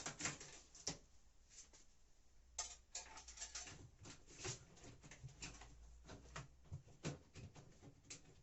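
Faint scattered clicks and rubbing of a washing machine's door-seal spring clamp being pulled off and the rubber seal being worked loose by hand.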